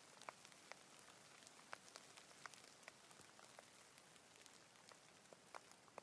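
Light rain falling: a faint, steady hiss with individual drops landing as separate sharp ticks, several a second.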